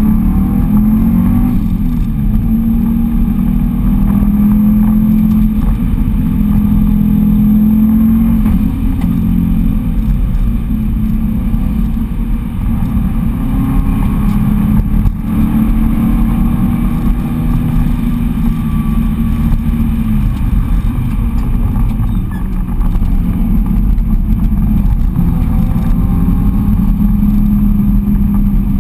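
Subaru Impreza wagon's turbocharged flat-four engine, heard from inside the cabin, pulling hard at track speed. Its pitch rises through the revs and drops back again and again with gear changes and lifts for corners, over steady road and wind rumble.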